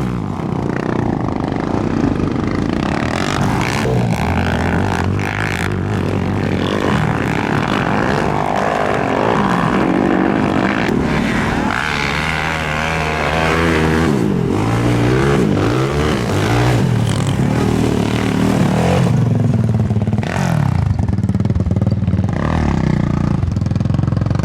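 Racing ATV (quad bike) engines running hard, repeatedly revving up and falling back, with more than one engine heard at different pitches at once.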